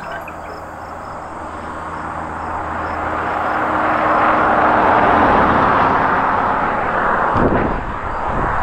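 A motor vehicle passing by, its noise swelling to a peak about halfway through and then fading.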